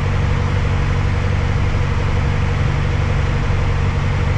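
Cabin drone of a Piper Archer's four-cylinder piston engine and propeller, running steadily at reduced power on final approach.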